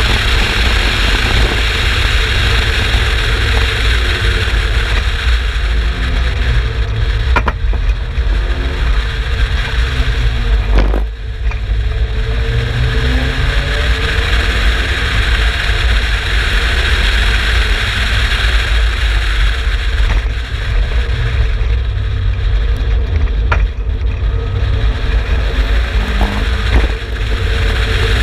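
Turbocharged Mazda BP 1.8-litre four-cylinder engine of an Exocet kit car running hard on a race track, its pitch rising and falling through the gears, under a heavy rumble of wind noise at speed. A few sharp knocks come through, one about a quarter of the way in and one near three quarters, with brief dips in level as the throttle comes off.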